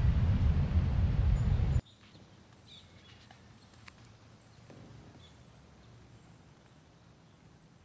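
Wind buffeting the microphone, cutting off abruptly about two seconds in. Then quiet outdoor ambience with a few faint bird chirps and a faint high ticking about three times a second.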